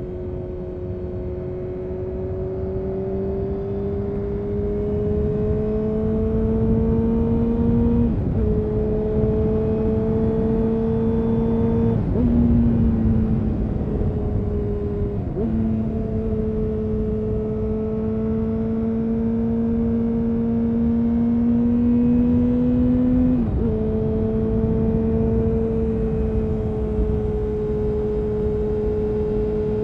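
2000 Honda CBR929RR Fireblade's inline-four engine through a full Erion Racing exhaust, pulling steadily under way, its note rising slowly and dropping suddenly about four times as it shifts up.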